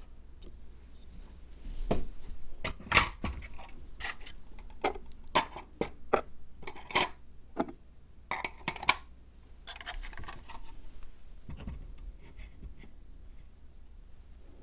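Small hard pieces being handled while a miniature zen garden diorama is built: about a dozen sharp clicks and taps between two and nine seconds in, then a softer rustle.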